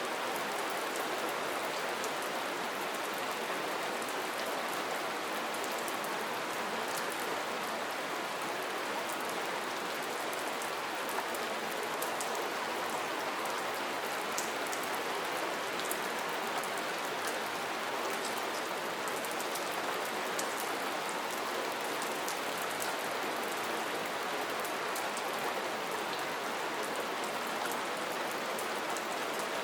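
Steady soft rain falling, a constant even hiss with scattered light drops ticking through it.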